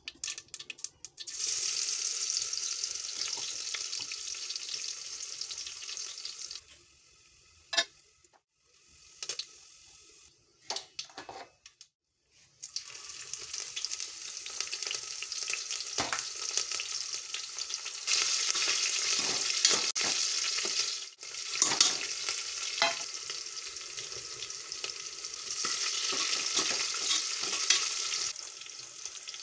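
Hot oil sizzling in a pressure cooker as chopped onions, green chillies and tomato fry. The sizzle dies down for several seconds a quarter of the way in, with a few sharp clicks, then comes back and swells louder twice in the second half.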